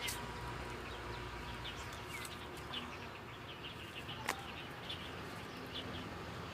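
Faint outdoor ambience: many short bird chirps over a low insect hum, with one sharp click a little over four seconds in.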